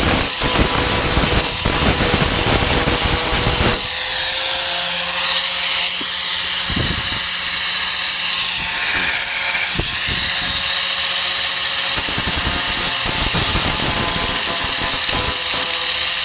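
Angle grinder grinding down the welds on a steel tailgate patch, running steadily. About four seconds in, the heavy low grinding noise eases and the motor's steady whine comes through over lighter contact with the metal.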